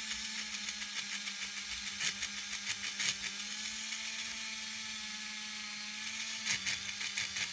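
Small electric motor of an HO steam locomotive running steadily with a whir, with a few light clicks. Its worm gear is slipping against the large drive gear, so the drive turns with very little torque.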